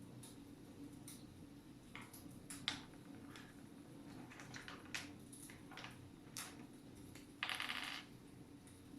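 Wood fire in a fireplace crackling faintly: scattered small snaps and pops, and a louder hissing crackle lasting about half a second near the end.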